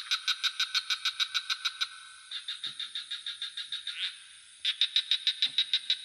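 Frogs calling in rapid pulsed trills of about nine pulses a second, in three bouts of roughly two seconds each, over a steady high-pitched insect drone.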